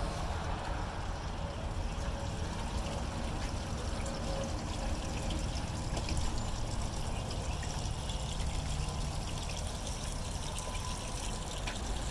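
Water running steadily through a gem-mining sluice trough, an unbroken trickling splash, over a low rumble.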